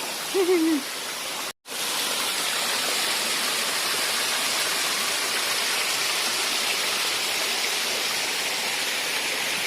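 Steady rushing of water from a jungle waterfall and its stream, breaking off for an instant about a second and a half in and coming back slightly louder.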